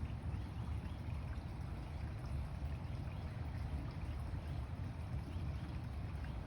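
Steady outdoor noise of running water, dominated by a deep low rumble that wavers without a break.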